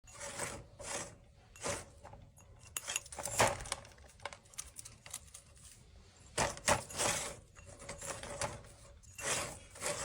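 Irregular light clicks, taps and rustles, some in quick runs, with a faint steady hum underneath.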